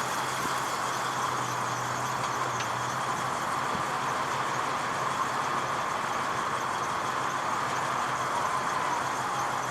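The 1966 Ford Mustang's 289 V8 running steadily, a constant rushing engine noise with no revving.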